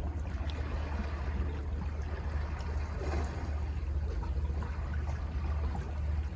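Calm sea washing against cliff rocks: a steady rush of water with small trickles and splashes over a constant low rumble.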